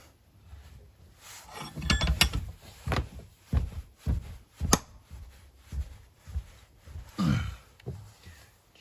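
Irregular metal knocks and clanks, about a dozen, as a seized old blade clutch bearing is worked loose, one strike ringing sharply about halfway through, with a short falling sound about seven seconds in.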